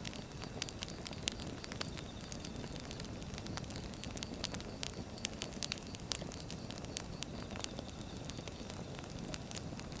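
Wood fire burning: irregular crackles and pops over a steady low rumble of flames.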